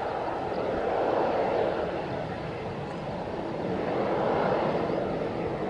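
Jet engine noise from an Airbus A320-200: a continuous rushing roar that swells twice and eases between.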